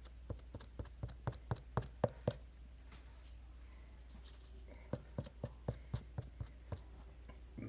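Keys tapped on a computer keyboard in two short runs of about ten keystrokes each, a few seconds apart.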